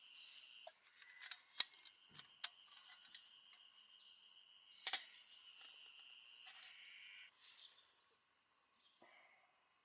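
A steady, faint high insect drone that stops about seven seconds in, with a few sharp clicks and knocks and a short bird chirp.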